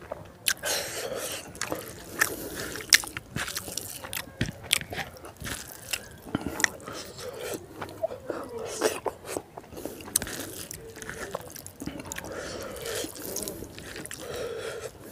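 Close-up chewing and biting of a person eating rice and pork curry by hand: wet mouth smacks and short sharp clicks, irregular throughout.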